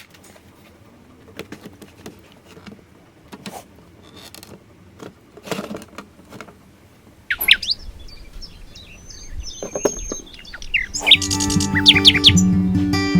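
Faint scattered clicks and taps, then a recorded forest ambience of birds chirping and trilling in quick rising and falling calls starting about halfway through. Near the end, a solo acoustic guitar piece comes in under the birdsong.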